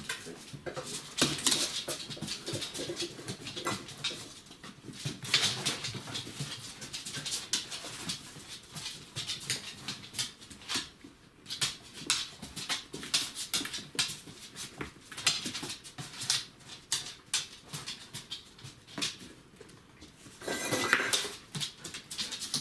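Five-week-old border collie puppies moving about, with many small clicks and knocks from paws and objects, and a puppy whimpering briefly near the end.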